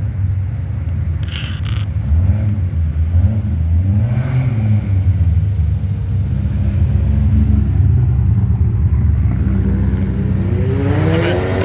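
Car engine running with a deep low rumble, its pitch rising and falling several times as it is revved; near the end a higher, rising rev comes in.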